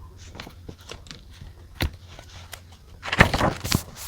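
Stationery handled on a desk while journaling: a few light taps and clicks, then a short burst of scratchy paper rustling about three seconds in.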